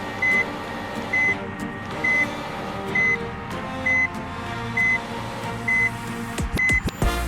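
Electronic reversing beeper of a battery toy vehicle, sounding a steady single-pitched beep about once a second over background music. A few sharp knocks come near the end.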